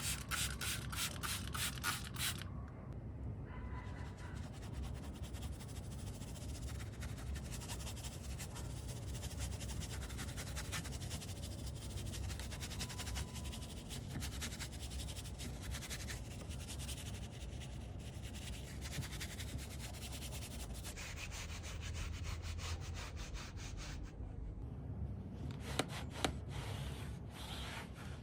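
Scrubbing and rubbing on a car door panel: quick, rapid strokes for the first two seconds or so, then steady rubbing, with a couple of sharp knocks near the end.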